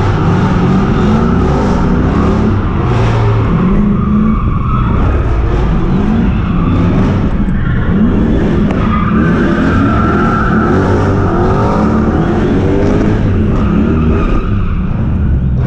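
V8 drift cars revving hard, the engine pitch climbing and dropping over and over with the throttle, while the tyres squeal through long slides.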